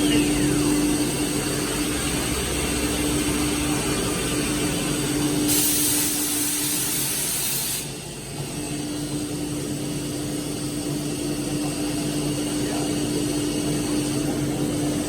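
A machine running with a steady hum and a faint high whine. About five and a half seconds in, a hiss like an air blast or spray lasts about two seconds. The hum drops out briefly just after the hiss stops, then carries on.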